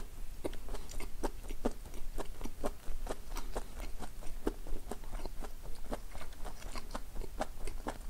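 A person chewing a mouthful of food with wet mouth clicks and smacks, about three a second.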